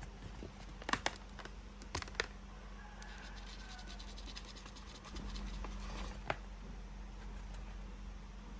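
Latex modelling balloon squeaking and creaking as it is twisted and handled. There are sharp squeaks about one and two seconds in and again near the end, with a stretch of fast rubbery ticking in between.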